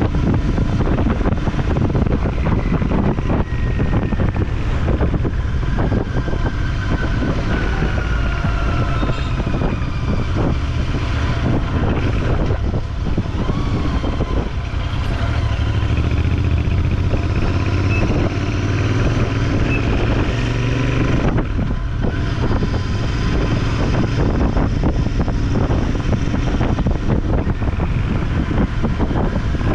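Motorcycle running on the move, its engine steady under road and wind noise, with the pitch of other vehicles sliding as they pass.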